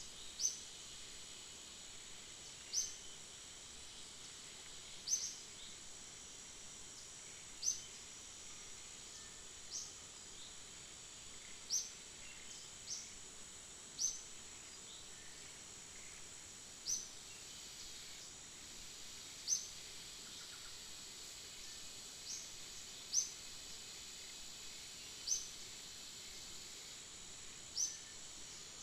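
Outdoor ambience: a steady high insect drone, with a short, high chirp repeated every two to three seconds.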